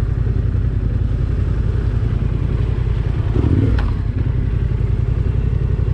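Motorcycle engine running steadily at low revs as the bike creeps along the trail, with a single sharp knock about four seconds in.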